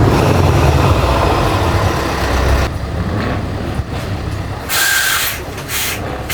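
Heavy truck diesel engine running loudly, its rumble dropping away under three seconds in. Then two short, sharp hisses of compressed air, the first with a whistling edge, typical of a truck's air brakes.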